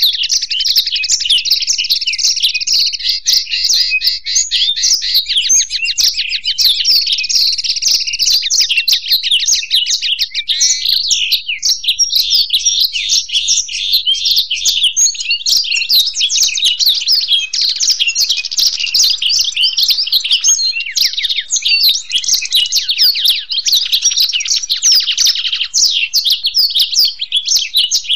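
A black-throated canary and a European goldfinch singing together in a continuous stream of fast twittering, trills and chirps with no pause.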